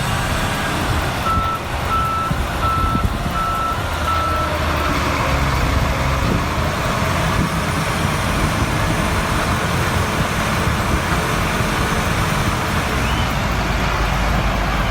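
Heavy vehicle engine running steadily, with a reversing alarm beeping about six times at an even pace over the first few seconds and then stopping.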